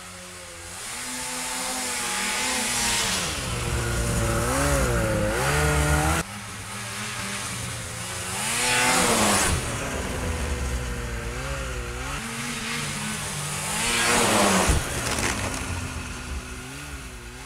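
Ski-Doo Formula 380 snowmobile's two-stroke engine running under way, its pitch rising and falling as the throttle is worked, with three louder surges.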